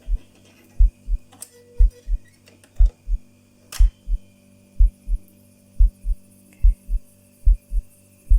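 An unidentified low, deep double thump repeating about once a second, like a heartbeat, over a steady hum: the strange night-time noise that she takes for an unknown animal. Two brief sharp clicks come through, about one and a half and four seconds in.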